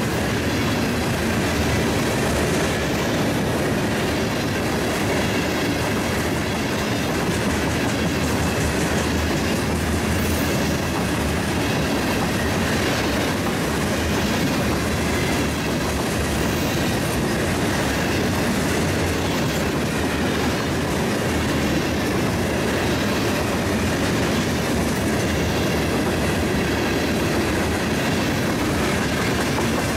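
A train's cars rolling past on the rails, with a steady, unbroken rumble and clatter of wheels on track.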